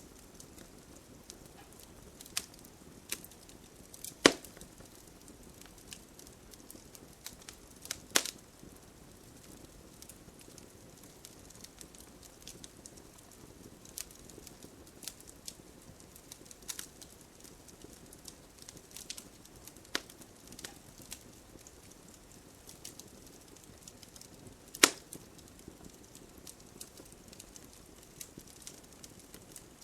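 Wood campfire burning, with a soft steady hiss of flames and scattered crackles. A few sharp, loud pops stand out: one about four seconds in, another about eight seconds in, and one near the end.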